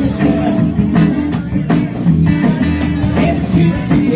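Live rock band playing: electric guitar and bass over a drum kit keeping a steady beat.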